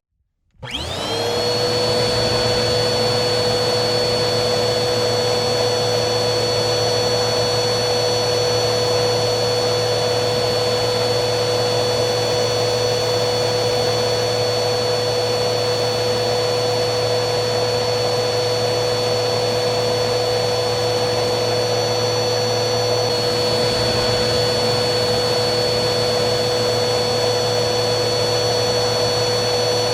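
Vacuum cleaner motor running with a steady rushing noise and a high whine. It drops out for a moment at the very start, then spins back up to full speed within about a second.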